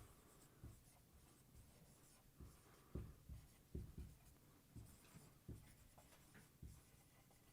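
Faint, irregular strokes and taps of writing, made by hand as an equation is written out.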